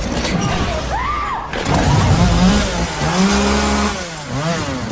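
Dramatic film sound effects playing from a screen: wailing tones that glide up and down, a held tone in the middle, then a fast warbling wail near the end.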